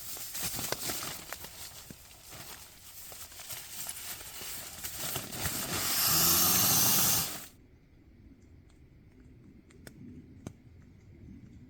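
Rustling and crackling with scattered clicks, building to a loud steady hiss that cuts off suddenly about seven and a half seconds in; after that only a faint steady hum and a few light clicks.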